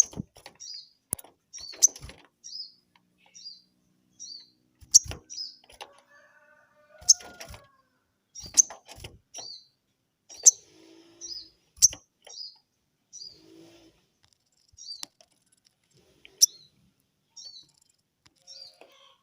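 Sogon bird giving rapid, repeated short chirps, each a quick falling double note, about one to two a second, with sharp clicks between them that are the loudest sounds. They are the bird's agitated answer to a rival's call.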